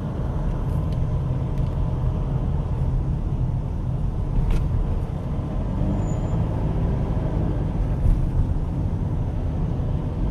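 Car engine and road noise heard from inside the cabin while driving slowly in traffic: a steady low rumble.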